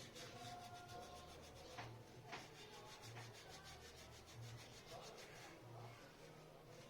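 Near silence: a faint low hum with a few soft rubbing sounds and light taps.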